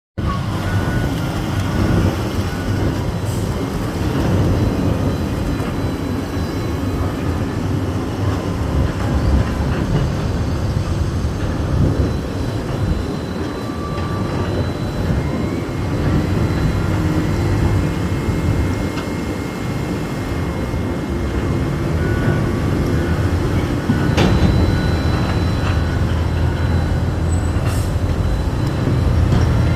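Diesel engines of a Sany excavator and a Liugong wheel loader running under load as they work in a steel barge hold, with a few sharp metallic clanks, about three over the stretch.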